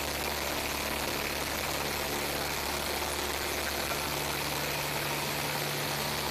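Single-engine piston airplane engine running steadily at takeoff power, heard from inside the cockpit as an even drone with a low hum.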